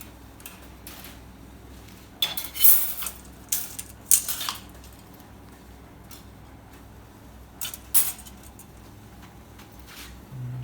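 Thin sheet-steel pieces cut from an 18-litre square can clanking and rattling against each other as they are handled, in a cluster of sharp clanks about two seconds in and a pair more near the end.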